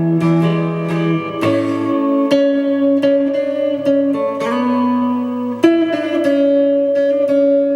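Kit-built electric guitar played through a Blackstar amp: picked notes and chords left to ring, a new one about every second.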